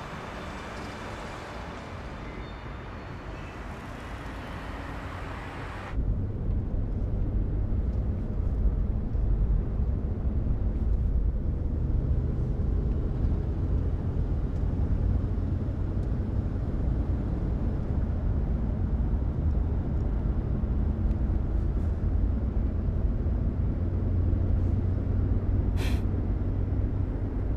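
A steady low rumble of a car driving, which starts abruptly about six seconds in after a quieter stretch of even hiss. There is one short click near the end.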